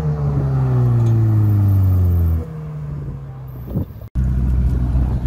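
Ferrari 488's twin-turbo V8 running with its pitch falling steadily as the car slows, then dropping off in level about two and a half seconds in. After a sudden cut near the end, the engine idles at a low, steady pitch.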